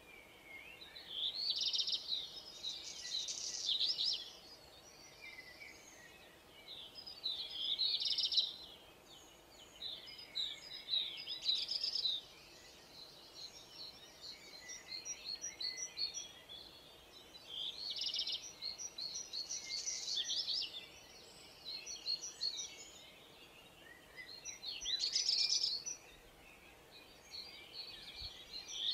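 Birdsong: a small bird sings repeated warbling, chirping phrases of one to three seconds each, with short pauses between them, over a faint steady background hiss.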